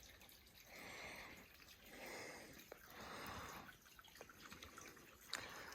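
Very faint dripping and trickling of a shallow stream, coming in a few soft swells about a second apart, with a couple of tiny ticks.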